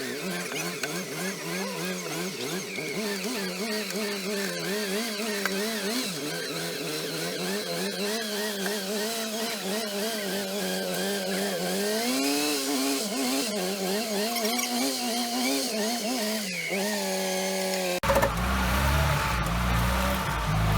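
Off-road 4x4's engine revving hard and labouring in mud, its pitch wavering up and down as the revs rise and fall. About eighteen seconds in, it gives way abruptly to a deeper, lower rumble.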